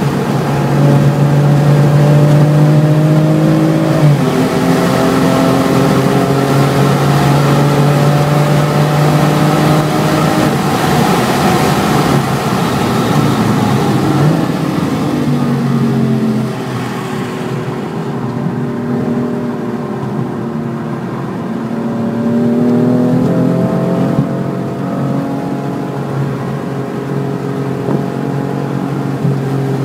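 2018 BMW M4 Competition's twin-turbo inline-six heard from inside the cabin under hard acceleration at high revs, with loud wind and road noise at speed. About halfway through the engine note falls away as the car brakes hard and drops a gear for a corner. It then climbs again as the car accelerates out.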